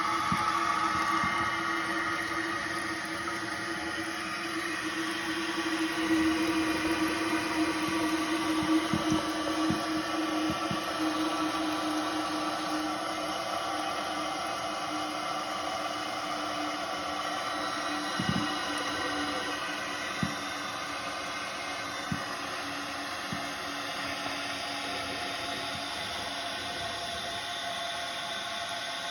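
Toilet tank refilling: its 12-inch Hoover Line-style fill valve runs with a steady hiss and whine as water flows in, with a few small knocks.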